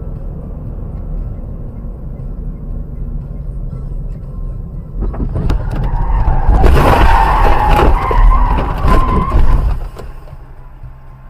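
Car driving with a steady low road rumble. About five seconds in comes a loud skid with tyres squealing and a run of knocks and bangs, which stops abruptly near the end.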